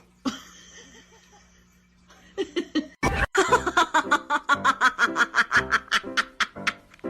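A person laughing hard in rapid, evenly repeated bursts, starting about three seconds in just after a sudden thump.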